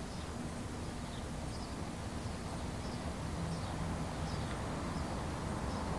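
Steady faint hiss and background noise of an old VHS recording, with a few faint short high ticks scattered through it.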